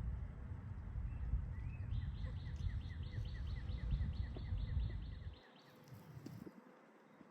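A songbird's trill of rapid, evenly repeated notes, about six a second, starts a second or so in and lasts about three and a half seconds. Under it a low rumble on the microphone cuts out about five seconds in.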